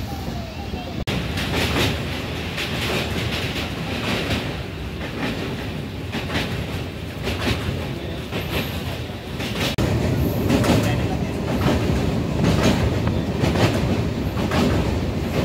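Express passenger train running at speed, heard from inside a sleeper coach at its open barred window: a steady rumble of wheels on the rails with repeated clickety-clack over the rail joints. It grows louder about ten seconds in.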